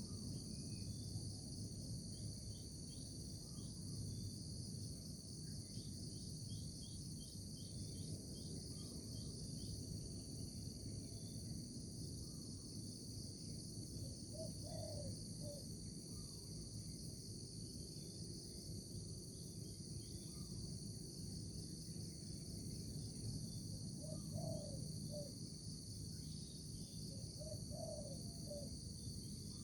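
A steady, high-pitched chorus of insects such as crickets over a low background rumble. Short calls break in three times: about halfway through and twice near the end.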